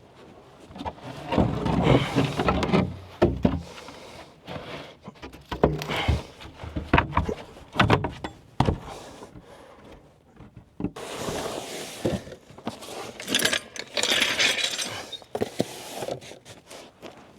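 A person crawling and clambering out of a cramped crawl space: irregular knocks, scuffs and rustling, with heavier scraping bursts about two seconds in and again after about eleven seconds.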